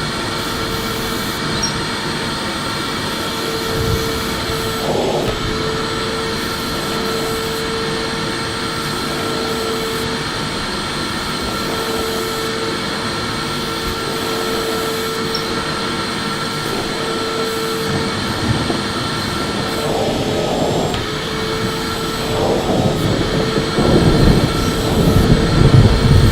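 Electric vacuum cleaner running steadily, a constant whine over a rushing hiss. It grows louder, with a deeper rumble, over the last few seconds.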